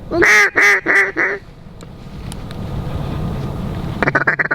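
A mallard duck call blown loudly: four drawn-out quacks, then a fast feed chuckle of short rapid notes near the end. A low rumble fills the gap between.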